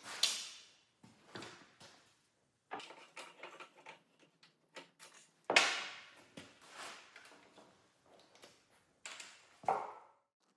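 Irregular knocks, clicks and scrapes of tools and small parts being handled on a workbench, with the loudest knock about five and a half seconds in.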